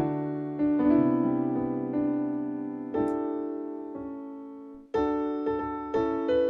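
Solo piano background music, slow and gentle: sustained chords decay, fading almost to nothing just before a new phrase begins about five seconds in.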